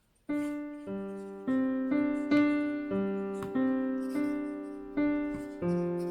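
Solo piano background music playing slow, evenly spaced single notes and chords, starting after a brief gap about a quarter second in.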